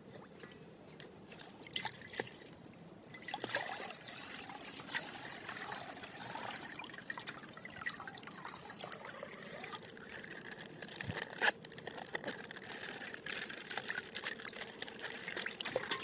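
Thin plastic packaging crinkling and rustling in the hands as a surprise bag is opened, with many small irregular crackles and clicks.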